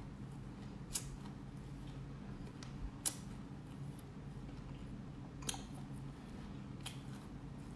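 Eating sounds from black sesame seeds being chewed: a few sharp, isolated clicks and crunches, about four, over a steady low hum.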